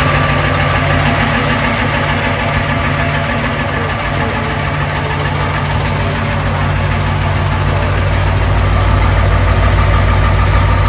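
Ford 7.3 Power Stroke turbo V8 diesel idling steadily on a cold start after sitting for two weeks, growing a little louder about eight seconds in.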